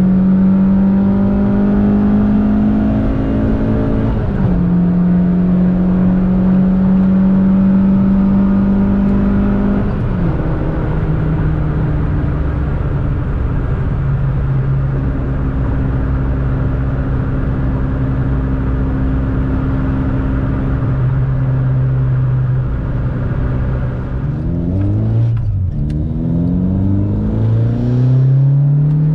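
VW Golf MK2's 16-valve four-cylinder on motorcycle carburettors (individual throttle bodies) running under way. It holds fairly steady revs with drops in pitch at gear changes near 4 s and 10 s, then runs lower and steady. Near the end it lifts off, shifts quickly and revs up hard.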